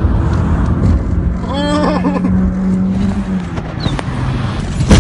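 Honda Civic driven hard at high speed, heard from inside the cabin: engine and road noise, with a steady drone in the middle. A single sharp knock comes just before the end.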